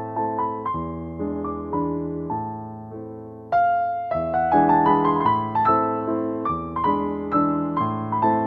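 Slow solo piano music, notes struck and left to ring out. It grows quieter, then a loud chord about three and a half seconds in sets it going louder again.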